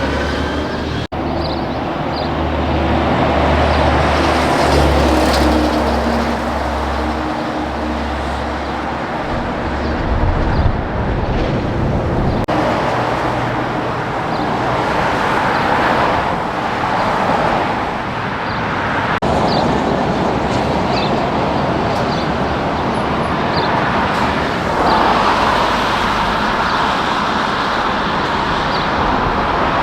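Heavy trucks passing on a highway. A diesel engine's deep drone dominates the first several seconds, then gives way to steady tyre and road noise that swells and fades as more vehicles go by. The sound cuts out for an instant about a second in.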